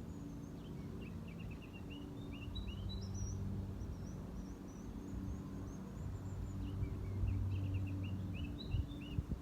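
Songbirds chirping in two quick runs of short high notes, one near the start and one near the end, over a steady low hum.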